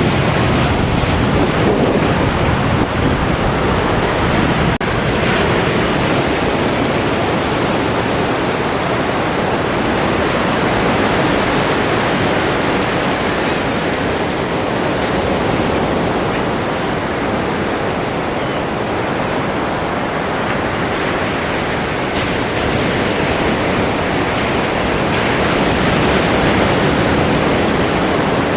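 Ocean surf: a steady, dense wash of breaking waves, swelling and easing only slightly.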